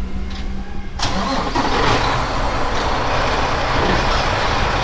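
Semi-truck's diesel engine running, with a sudden rush of loud hissing noise about a second in that carries on steadily.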